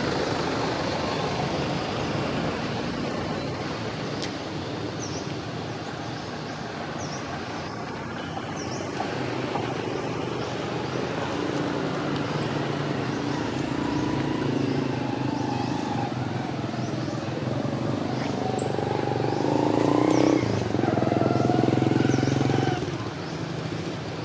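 An engine running steadily, growing louder about twenty seconds in and dropping off shortly after, over a noisy outdoor background with faint high chirps.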